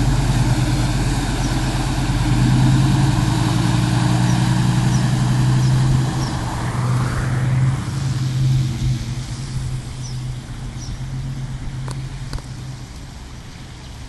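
A motor vehicle's engine running steadily close by, then fading away over the last several seconds. Faint short high chirps repeat throughout.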